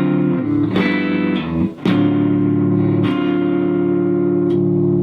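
Rickenbacker 325 electric guitar played through an amplifier with all three pickups on, strumming chords: quick strums in the first two seconds, then a chord left ringing and lightly restruck a couple of times.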